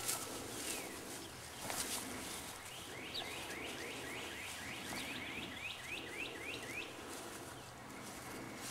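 A bird calling a rapid series of short, falling chirps, about four a second for about four seconds, starting about three seconds in, over faint outdoor background noise.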